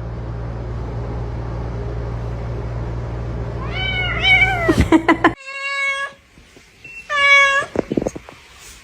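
Domestic cat meowing: two short meows over a steady low hum about four seconds in, then, after the hum cuts off, two longer, loud meows about a second and a half apart, with a few light clicks between.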